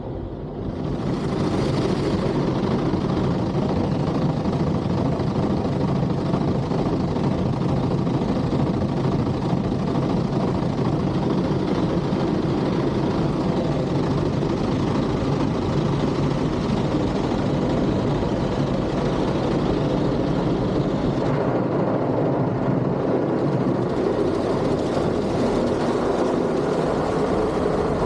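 Automatic car wash running: a loud, steady rushing of wash machinery that swells about a second in and holds, its hiss briefly thinning a little past three-quarters of the way through.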